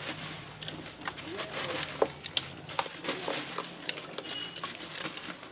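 Dry dirt crumbling: irregular crackles and sharp taps, with a low steady hum beneath.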